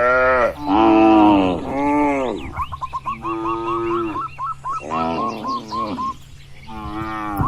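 Cattle in a barn mooing one after another, about six short moos of under a second each, each rising and falling in pitch. A steady run of short high chirps sounds underneath.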